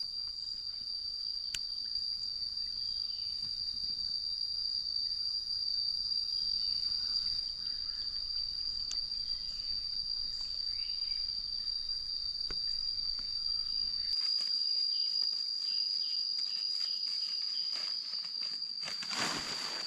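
Insects chirring in one continuous, steady high-pitched drone, with a few faint clicks and a brief rustle near the end.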